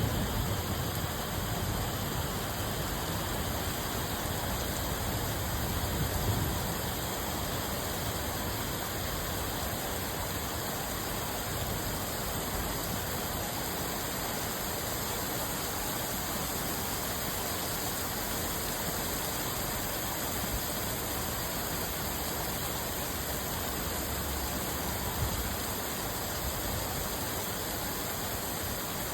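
Steady rain falling, an even hiss without a break, with a brief low rumble about six seconds in.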